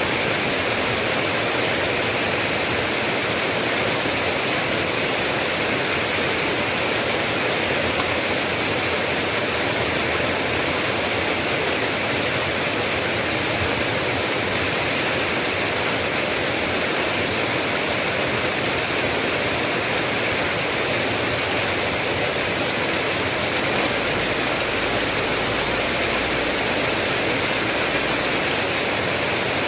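Steady heavy rain, a dense even hiss of falling water with no breaks; a faint low rumble joins underneath from about three-quarters of the way through.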